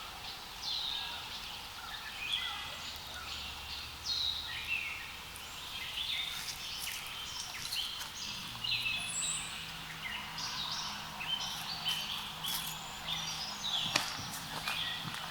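Small songbirds singing and calling together, a dense, unbroken run of short, quick high chirps that slide downward. A single sharp click comes near the end.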